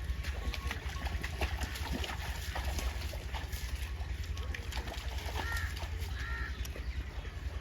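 Water sloshing and small splashes around bathing buffaloes, heard as scattered clicks over a steady low rumble. Two short bird chirps come about two-thirds of the way through.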